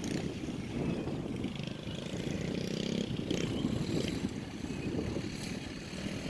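Small dirt bike engine running at a distance, its note holding steady for short stretches among low rumbling noise.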